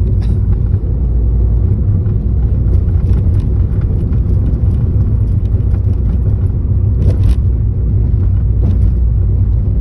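Cabin noise inside a moving 2013 Mini Cooper S: steady low road and engine rumble with a light, plasticky interior trim rattle chattering over it in scattered clicks, one stronger about seven seconds in.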